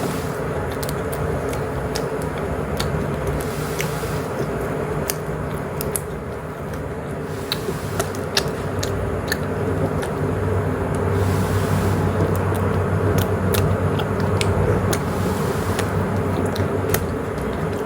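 Close-miked chewing of mushroom and cheese pizza: many short, sharp mouth clicks and bites over a steady low background hum.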